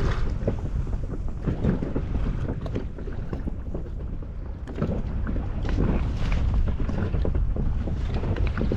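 Wind buffeting the microphone in a small inflatable boat at sea, with scattered small knocks and splashes of water against the boat.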